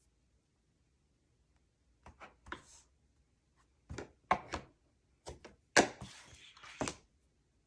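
A string of sharp clacks and knocks, about ten in all, with a short rustle of paper near the end, as paper and craft tools are handled on a tabletop.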